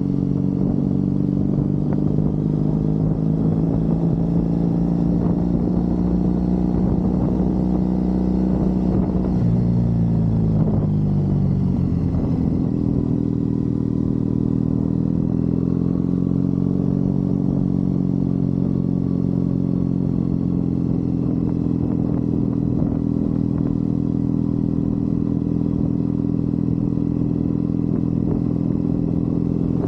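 Triumph Bonneville's parallel-twin engine running on the move. Its pitch falls about ten seconds in, then holds steady with a slight rise a few seconds later.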